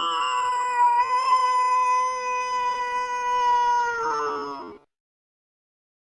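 Domestic cat giving one long, angry yowl, held steady in pitch for about four seconds before it wavers, falls and stops near the end.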